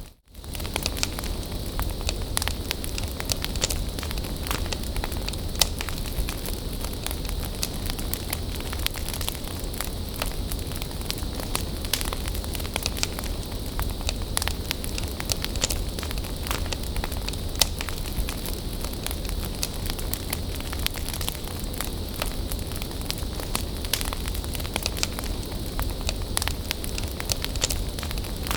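Wood bonfire burning, with a constant scatter of crackles and sharp pops over a steady hiss and low rumble.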